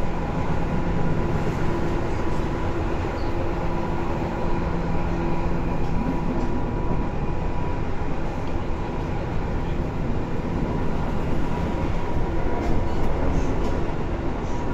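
Tobu 10030 series electric train running at speed, heard from inside the car: a steady rumble of wheels and running gear with a thin steady whine. A lower hum drops away about six or seven seconds in.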